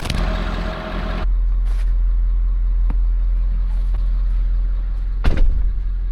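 A truck driving, with a steady low rumble from the engine and road and a sharp knock about three seconds in and again about five seconds in.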